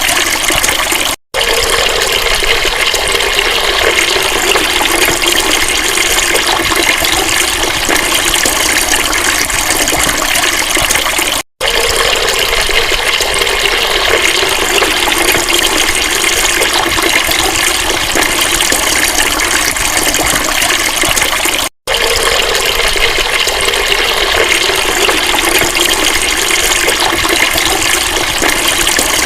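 Running water rushing steadily, cut by three brief dropouts about ten seconds apart.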